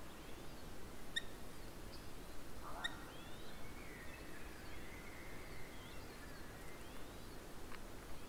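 Wild birds calling: two short, sharp calls about a second and a half apart, scattered chirps, and a longer drawn-out call in the middle, over a steady low background rumble.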